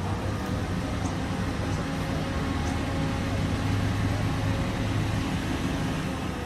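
A car engine running steadily with a low rumble, swelling slightly in the middle and fading away about five seconds in.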